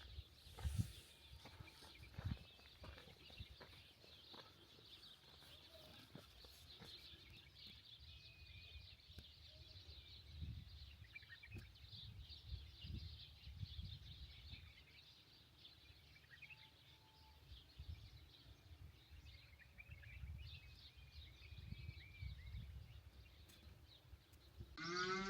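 Quiet rural ambience: faint bird chirps over a steady high hiss, with scattered low thumps. A cow starts to moo right at the end.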